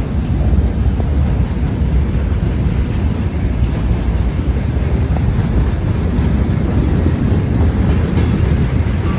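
Low rumble of an approaching ЭП2К electric locomotive hauling a passenger train, under steady wind noise on the microphone.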